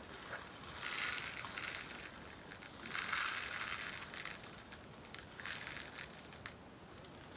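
Diamond-painting drills (tiny resin beads) poured from a bag into a small plastic pot: a sudden rattling rush about a second in that trails off, followed by a smaller pour around three seconds and a faint trickle later.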